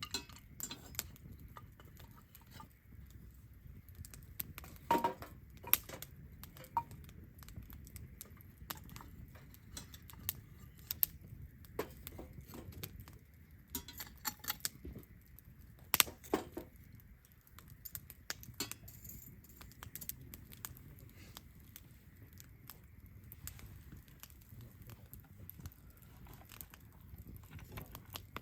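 Wood campfire crackling, with irregular sharp pops over a soft low rush of the flames. A few pops stand out loud, about five seconds in and again about sixteen seconds in.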